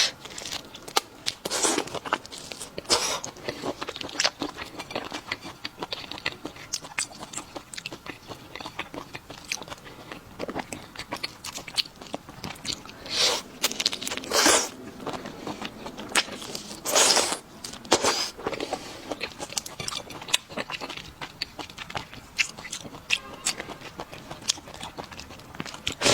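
Close-miked eating of red prawns: crunchy bites and chewing, with many small clicks and several louder crunches.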